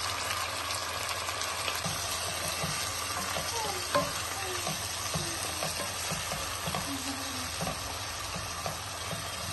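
Chopped onions, tomatoes and green chillies sizzling in hot oil in a Futura frying pan, stirred with a wooden spatula that gives soft knocks and scrapes against the pan.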